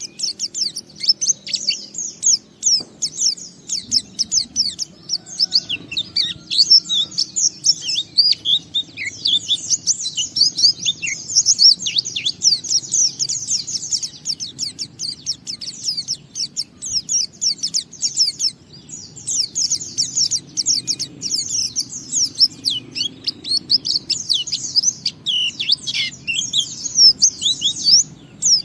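A white-eye (pleci) singing a long, rapid, continuous twittering song of quick high chirps, the sustained 'ngalas' style of song, with only a couple of brief breaks.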